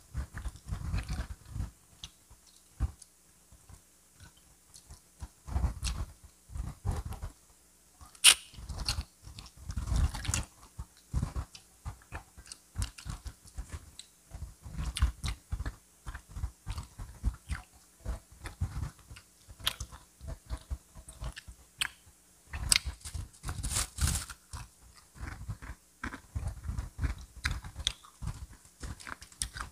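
A person chewing and biting crispy fried chicken, wet chewing broken by sharp crunches of the fried coating. The crunches come in an uneven run, with the sharpest ones about a third of the way in and again a little past the middle.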